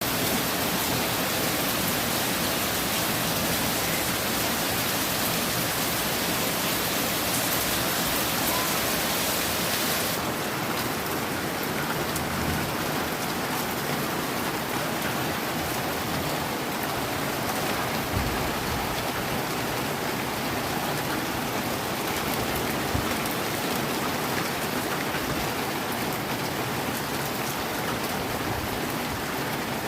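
Heavy rain falling steadily, a dense even hiss of drops on surfaces; the hiss gets a little duller about a third of the way through.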